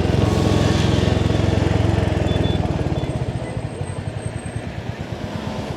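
Motorcycle's single-cylinder engine running under way, then easing off about three seconds in. It settles into a slower, even, idle-like thumping and gets quieter.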